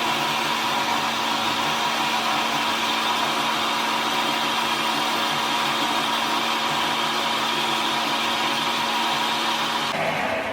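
An electric power tool's motor running steadily, with a constant whine. It is switched off near the end and winds down.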